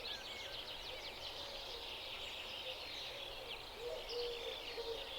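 Chorus of many small songbirds chirping and trilling rapidly over one another. From about four seconds in, a lower bird call repeats in short hoots beneath them.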